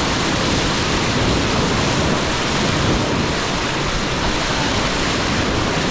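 Whitewater river rapids rushing steadily, a loud, even wash of moving water.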